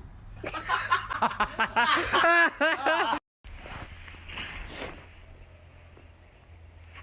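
A person laughing hard in quick repeated bursts for about three seconds, cut off abruptly; quieter background noise follows.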